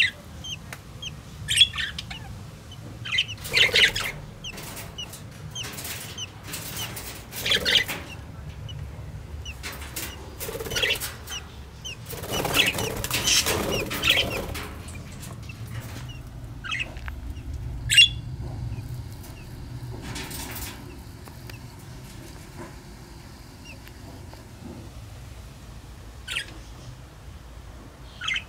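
Budgerigars cheeping in short, high chirps, clustered at the start and again near the end, with several loud rustling bursts between them, the longest lasting about three seconds in the middle.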